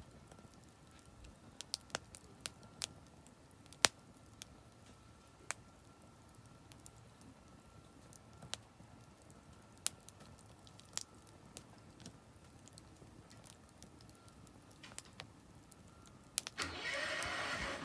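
Oak firewood burning in a campfire, giving sharp, scattered crackles and pops over a low hiss. Near the end, a much louder engine-like running sound cuts in abruptly.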